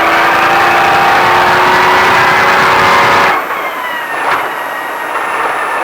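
Ford Baja Truck's engine pulling hard under throttle, its pitch rising slowly. A bit over three seconds in, the sound drops sharply and the engine note winds down.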